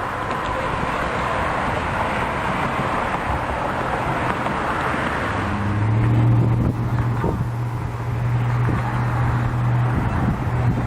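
A car passes, its noise swelling and fading about halfway through, then a steady low engine hum runs on with a few light knocks.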